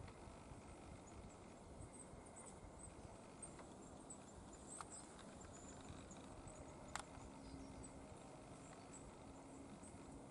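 Near silence with a few faint, sharp taps, the loudest about seven seconds in, from a small bird pecking at a mossy branch, and faint high chirps in the background.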